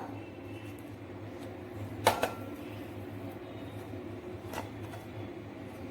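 Kitchenware being handled over a steady low hum: one sharp knock about two seconds in and a fainter one later.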